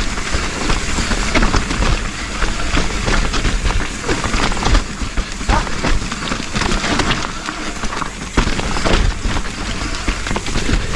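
Trek Slash 8 mountain bike riding down a wet, rough dirt trail: tyres rolling over mud and roots with a constant rattle and many quick knocks and clatters from the bike over the bumps.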